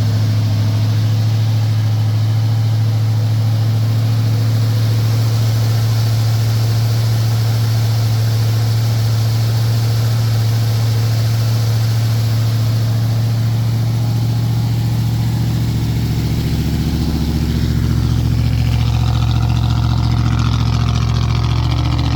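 A 1965 Chevrolet C10 pickup's engine idling steadily, still cold just after a cold start.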